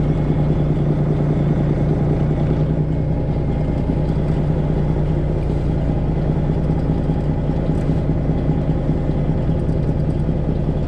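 Detroit Diesel 12.7-litre straight-six in a Freightliner Classic XL semi truck, running steadily at low revs with a constant, even drone during slow maneuvering.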